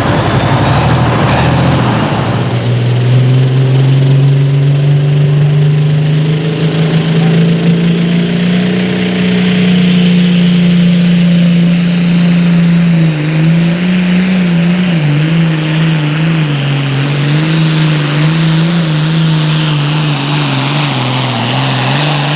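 Super farm class pulling tractor's turbocharged diesel engine running flat out under load, with a high turbo whistle rising over the first several seconds. From about halfway the engine note starts to waver up and down as the tractor works against the sled.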